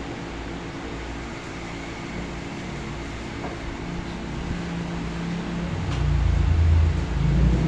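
A steady machine-like hum, with a low rumble that grows louder over the last couple of seconds.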